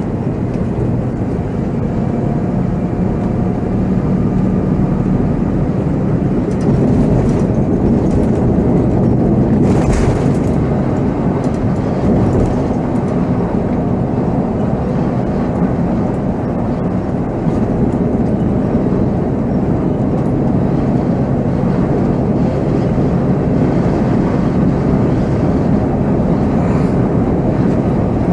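Volvo B7R coach's diesel engine and road noise while driving, a steady drone with a brief hiss about ten seconds in.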